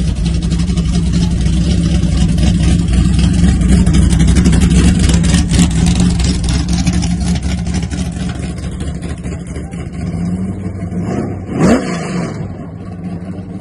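Big-block V8 of a Plymouth Duster running with a deep, steady rumble as it pulls away, loud at first and fading over the last few seconds. About twelve seconds in there is one short rising engine rev.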